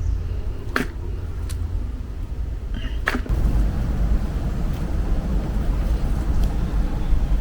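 A steady low rumble that grows louder about three seconds in, with a few sharp clicks in the first half.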